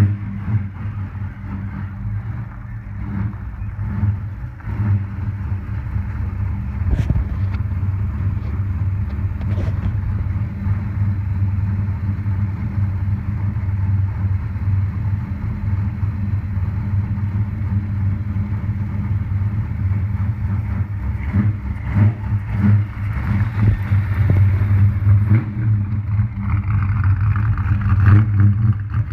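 Holden 355 stroker V8 in a VS SS Commodore, running through a twin 2½-inch exhaust as the car is driven slowly. The engine note stays low and steady, with a couple of sharp clicks near the start, and it gets louder over the last few seconds.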